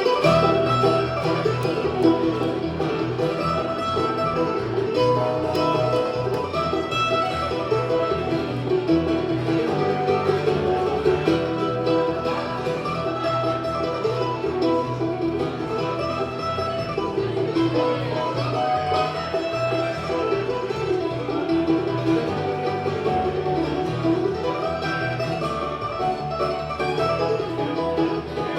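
Bluegrass band playing live, with banjo and guitar picking. The music steps up in loudness right at the start.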